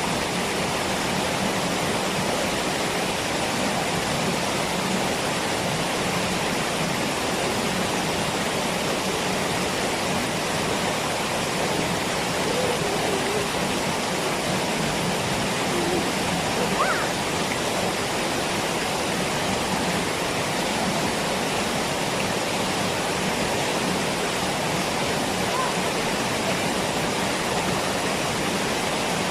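Waterfall rushing steadily, an even, unbroken roar of falling water, with a few faint short sounds about halfway through.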